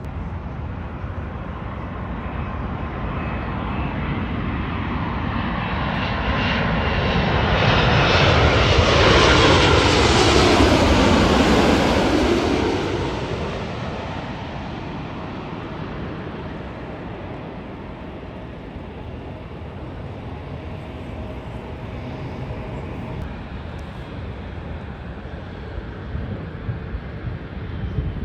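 Jet airliner flying past. Its engine noise builds to a peak about ten seconds in, drops in pitch as it goes by, then fades to a distant rumble.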